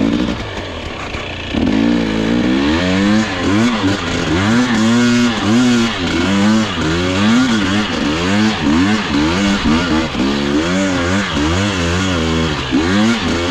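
Dirt bike engine revving up and down over and over, about once a second, as the throttle is worked; it gets louder about a second and a half in.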